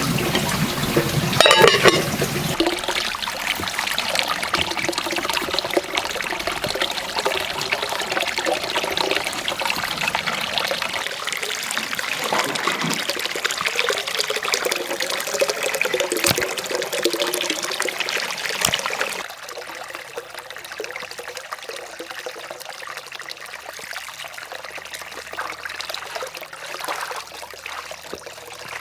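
Water trickling and gurgling steadily. It drops abruptly to a quieter trickle about two-thirds of the way through.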